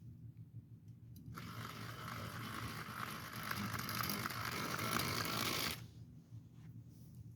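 Homemade Lego locomotive's small DC motor and worm-gear drive running on a 9 V battery. It starts about a second and a half in and cuts off suddenly after roughly four seconds.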